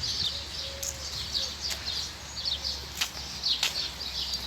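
Many small birds chirping together, a dense chorus of short overlapping high notes, with a few sharp clicks over a steady low rumble.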